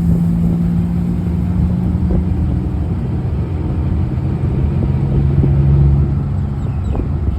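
A vehicle engine running steadily under a low rumble, its hum dropping a little in pitch about two thirds of the way through.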